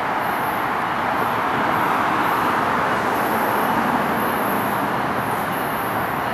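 Steady rumble of an electric passenger train approaching along the line, still some way off, with a slight swell a couple of seconds in, mixed with the general roar of traffic.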